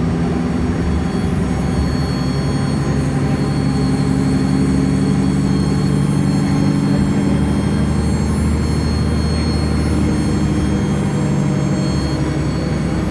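SEPTA Nova Bus hybrid-electric (HEV) transit bus running, a low engine drone with a high whistling whine above it that slowly rises in pitch and falls back near the end. This is the weird turbo noise the bus is making, a sound it has not made before.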